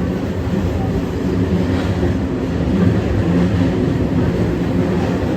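Kita-Osaka Kyuko 9000 series electric train running between stations, a steady low rumble heard from inside the car.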